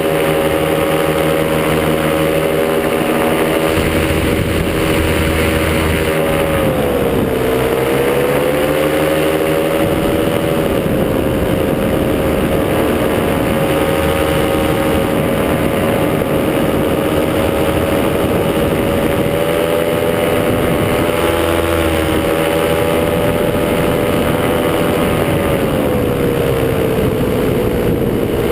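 Top80 two-stroke paramotor engine running steadily at cruise throttle, with wind noise. The engine note dips briefly about seven seconds in and drops again near the end as the throttle is eased.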